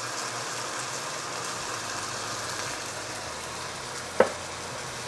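Chicken pieces sizzling steadily in sesame oil and rice wine in a hot wok as light soy sauce is poured in, with one sharp click about four seconds in.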